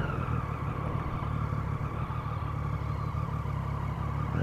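Motorcycle engine idling steadily at low revs.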